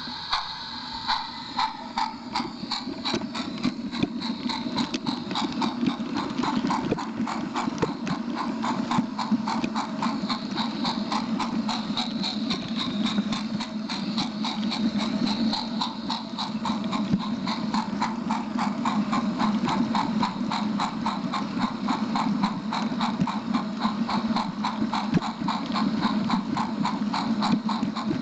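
A small train running on its track: its wheels click in a fast, even rhythm over the rail joints, over a steady motor hum.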